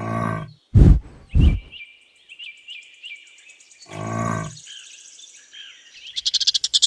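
Bison bellowing: two drawn-out, deep bellows about four seconds apart, with two short, loud low calls between them. Birds chirp in the background, and a rapid high-pitched chirring starts about six seconds in.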